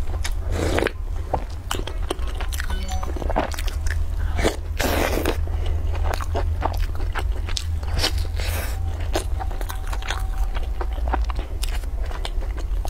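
Close-up chewing and biting of sugar-coated twisted fried bread, partly soaked in milk: a dense stream of small crisp crunches and wet mouth sounds, with a few louder bites or sips. A steady low hum runs underneath.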